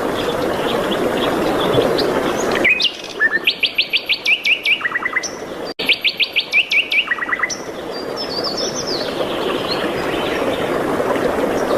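A songbird singing two loud runs of fast repeated notes, about five a second, each run stepping down in pitch, in the middle of the clip. Other birds give thin high chirps over a steady background hiss before and after.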